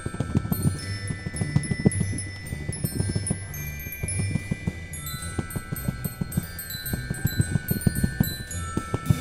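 Chimes ringing: several overlapping high, sustained tones that start and fade at staggered times, over a dense patter of short, soft, low knocks.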